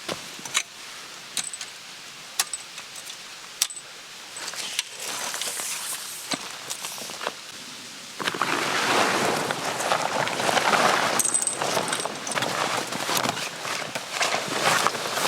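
Scattered light clicks and clinks of things being handled, then, about eight seconds in, a louder continuous rustling and crunching that rises and falls.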